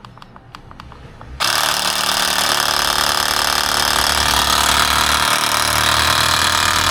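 Xiaomi battery-powered portable air compressor switching on about a second and a half in and running steadily, loud, as it pumps up a motorcycle tyre. Just before it starts there is a fast series of faint ticks.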